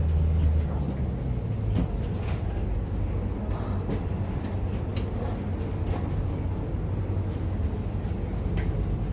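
Steady low rumble of a vehicle heard from inside, with a few light knocks and clicks over it.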